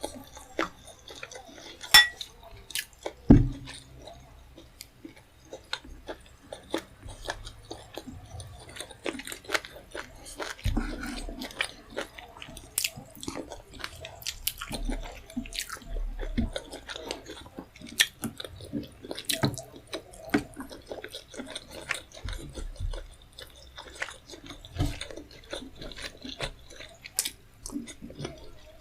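Close-miked eating sounds: chewing, with wet mouth clicks and crackles, as someone eats rice, tomato stew and fish head. A sharp ringing clink comes about two seconds in and a heavier knock a second later.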